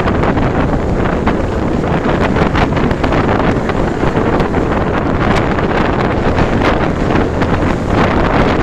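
Heavy wind buffeting the microphone on a moving motorcycle, a steady loud rush with frequent gusty flutters and the ride's low rumble underneath.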